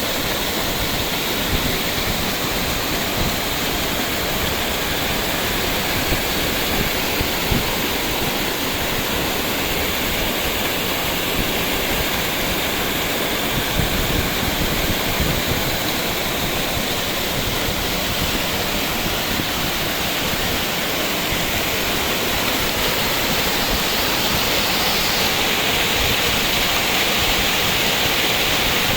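River water rushing steadily, a continuous even rush that grows slightly brighter near the end.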